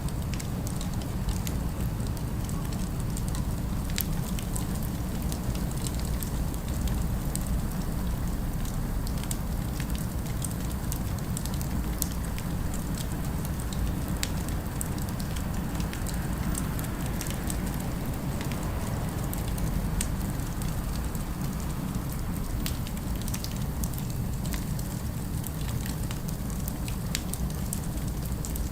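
Fire crackling, with scattered sharp pops over a steady low rumble of city ambience.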